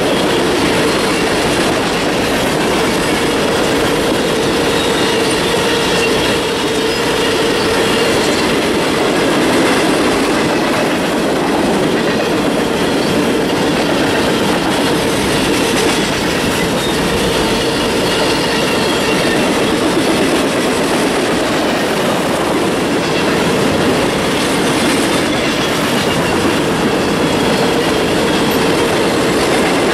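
Tank cars of a freight oil train rolling past at steady speed: continuous wheel-on-rail noise with a faint high steady squeal over it.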